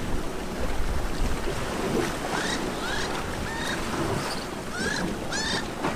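Wind buffeting the microphone over the wash of sea surf. From about two seconds in, a run of short rising chirps comes through, roughly two a second.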